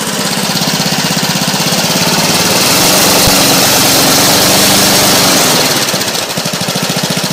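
Small push lawn mower engine running, speeding up about two seconds in and dropping back to a lower speed near six seconds.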